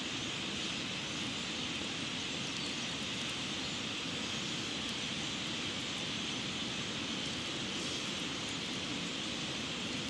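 Steady rush of flowing river water, an even hiss with no change in loudness.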